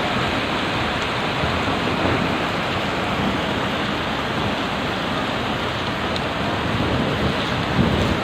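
Floodwater rushing steadily in a flash flood after a heavy storm.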